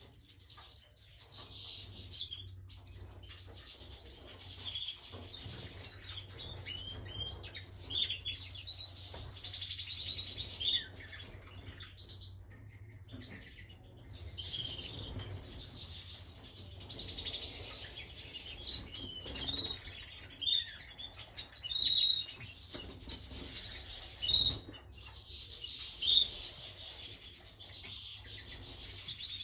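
Domestic canary singing: long runs of rapid chirps and trills, with a short pause about twelve seconds in and a few louder notes in the second half.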